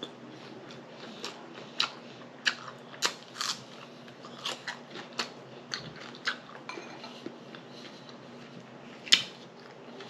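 Close-miked chewing and lip smacking over a mouthful of fruit salad: a string of wet, sharp mouth clicks at an uneven pace, about one or two a second, with one louder smack near the end.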